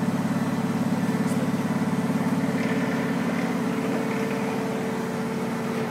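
An engine idling steadily with an even, rapid pulse, easing off slightly toward the end.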